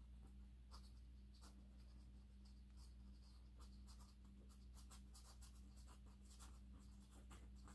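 Faint, irregular scratchy ticks of a paintbrush dabbing and stroking paint on the painting surface, over a steady low electrical hum.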